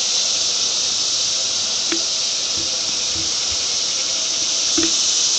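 Steady high-pitched hiss, with a couple of faint clicks about two seconds in and again near the end.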